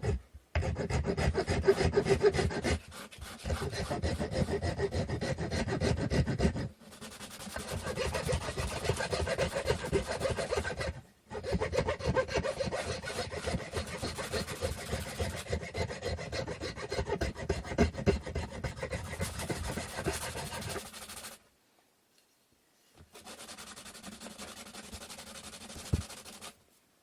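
Hand tool working a wooden stick in rapid back-and-forth strokes, a dry rasping rub on the wood. The strokes come in several bouts with short pauses about 3, 7 and 11 seconds in and a longer break near the end, after which a quieter bout follows.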